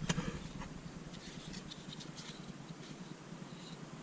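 A light knock, then faint scratching, rustling and small clicks as small objects are handled.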